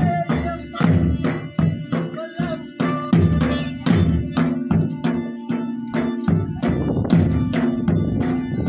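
Folk drumming for an attan dance: a dhol beating a steady, driving rhythm over a few held notes.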